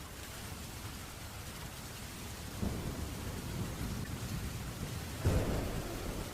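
Steady rain with thunder: a low rumble builds about two and a half seconds in, and a louder, sharper thunderclap breaks near the end and rolls on.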